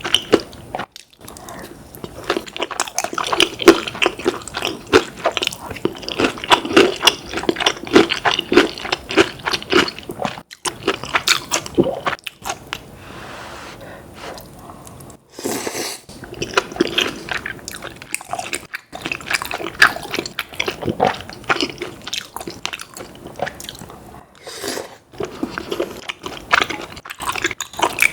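Close-miked eating sounds: biting and chewing fried chicken and tteokbokki in quick, irregular wet clicks, with a short lull about halfway through.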